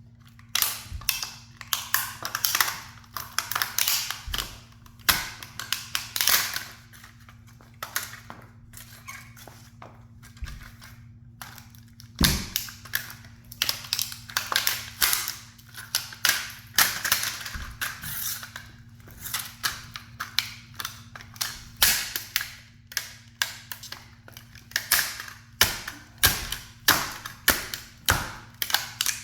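A toy sports car being crushed under a high heel: irregular sharp cracks and crunches coming in clusters, with one heavy crack about twelve seconds in and a quicker run of cracks near the end.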